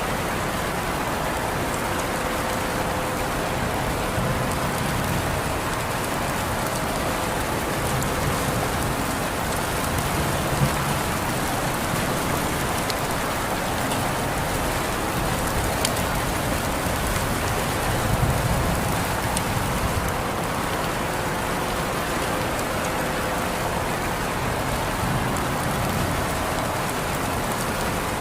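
Steady rain falling and pattering on surfaces, an even hiss with a few sharper drop hits about eleven and sixteen seconds in.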